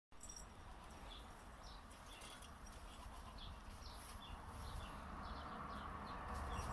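Faint birds chirping, many short high chirps scattered throughout, over a low steady background hiss.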